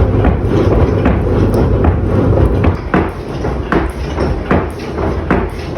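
Blacksmith's forge bellows being pumped. Air rushes through the fire in a steady low rumble, and a knock sounds about every three-quarters of a second, one with each stroke.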